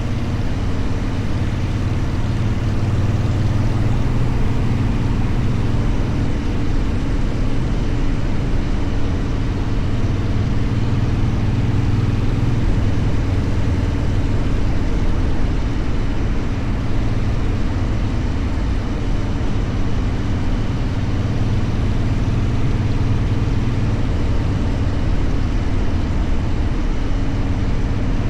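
Motorcycle engine running steadily while riding at an even speed, a low drone over a constant rush of wind and road noise.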